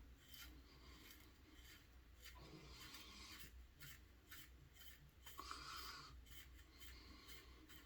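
Faint scratchy strokes of a Gillette Red Tip double-edge safety razor scraping stubble, a few longer strokes among short scratches.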